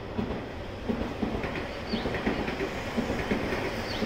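Electric commuter train rolling through the station, its wheels clattering over rail joints in an irregular string of knocks, with a couple of short, faint high squeals.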